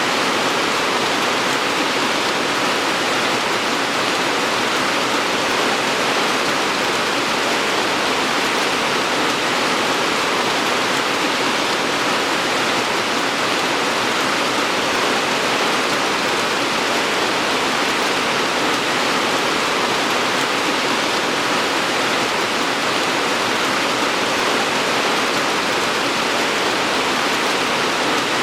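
Steady rain falling, an even, unbroken hiss without separate drops standing out.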